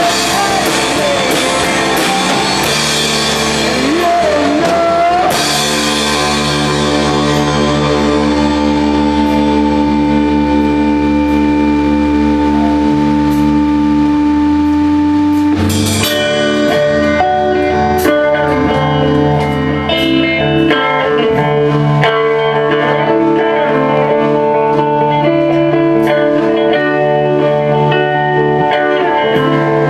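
Psychedelic rock band playing an instrumental passage, led by electric guitar over bass and drums. After about five seconds the cymbals drop away into long held chords over a low drone. About halfway through, the full band comes back in with a crash and busier guitar lines.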